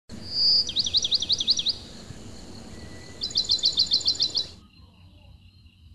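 A songbird singing over a steady outdoor hiss: one held high whistle, then a fast run of sweeping notes, a short pause, and a second quick run of about ten repeated high notes. The background hiss cuts off abruptly about four and a half seconds in.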